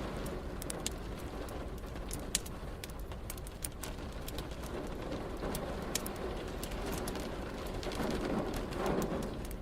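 Wood fire crackling, with frequent sharp pops and snaps, over a steady hiss of rain. A low rumble swells near the end.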